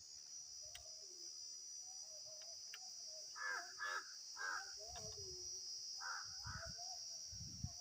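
Crows cawing: three caws in quick succession about halfway in, then two more a couple of seconds later.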